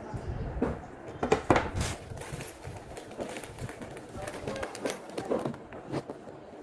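Indistinct voices in a small room, with scattered light knocks and clicks.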